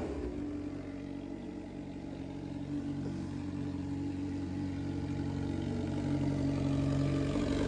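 2005 Suzuki GSX-R600's inline-four idling through a straight pipe with the muffler deleted, settling after a rev and growing slightly louder near the end.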